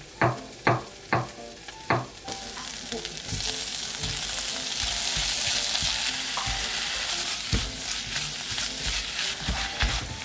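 A chef's knife chopping mushrooms on a wooden cutting board, four crisp chops about half a second apart. Then beef and onions sizzle in an enamelled cast-iron pot, stirred with a silicone spatula, the sizzle growing louder about three seconds in.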